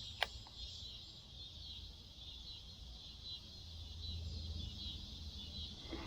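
Quiet outdoor ambience: a steady, high insect chorus hanging over a faint low rumble, with a single short click just after the start.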